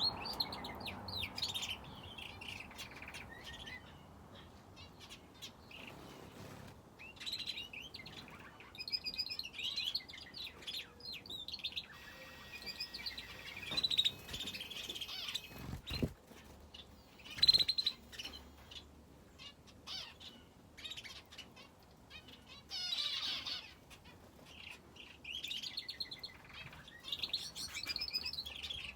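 Small cage birds, finches and a canary, chirping and twittering in short bursts every second or two, with scattered sharp clicks and wing flutters among them.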